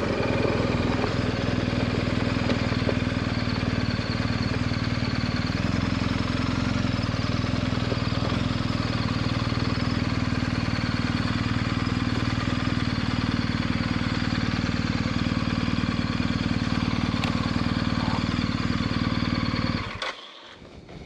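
BMW adventure motorcycle's engine running at a steady pace, its pitch holding even, then cutting off abruptly near the end.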